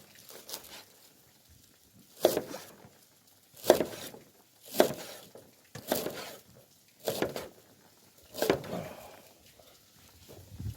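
Six sharp knocks a little over a second apart, each trailing off in a short rustle, from hands-on cooking work.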